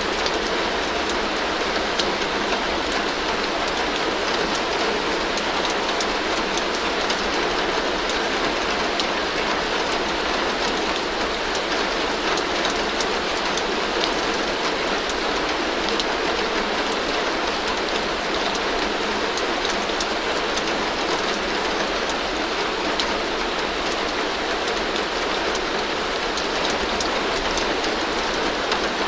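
Heavy rain falling steadily on a tin roof, a dense even patter with fine ticks of single drops striking the metal. No thunder or sudden changes.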